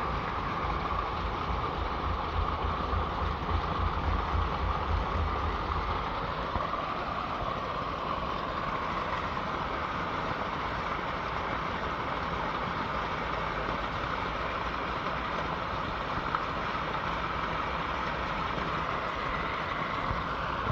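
Fast-flowing water rushing in a Köttelbecke, a concrete-lined open sewage creek, swollen and running strong after a rain shower: a steady rushing noise, with a deeper low rumble during roughly the first six seconds.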